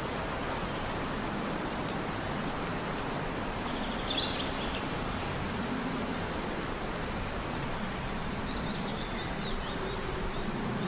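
Short, high chirping calls over a steady outdoor hiss. There are three bright phrases, one about a second in and two close together around the middle, each a sharp note followed by a quick falling run of notes, with a few fainter chirps between them.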